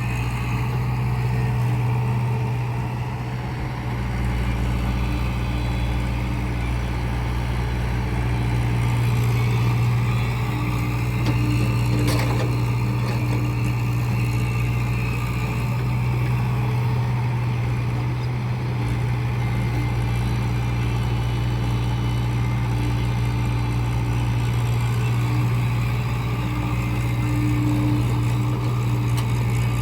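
Heavy diesel machine engine running steadily at a constant speed, a deep even hum that hardly changes.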